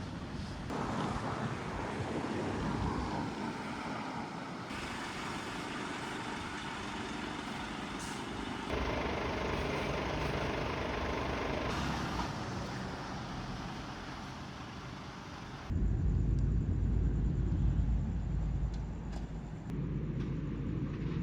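Vehicle and road-traffic noise, a steady rumble that changes abruptly several times. It becomes a much heavier low rumble in the second half.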